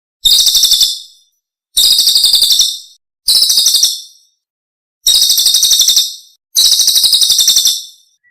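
Songbird master recording: a rapid, high-pitched chattering trill repeated five times, each phrase under a second long with a sharp start and a fading tail.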